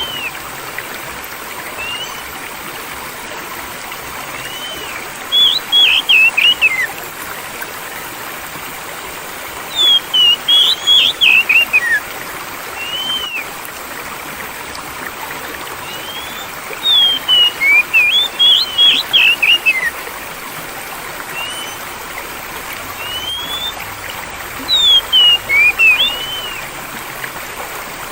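A songbird sings short bursts of rapid whistled notes every five to seven seconds, with single notes in between, over the steady sound of running water.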